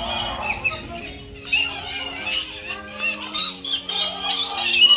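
Parrots squawking, with many short, harsh, high calls overlapping in quick succession. Soft background music plays underneath.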